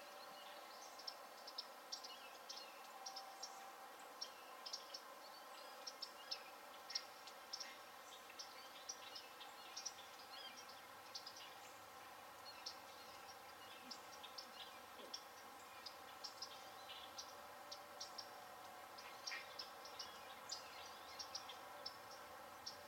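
Faint outdoor pond-side ambience: frequent short, high chirps from small birds calling in the distance, irregularly spaced, over a faint steady hum.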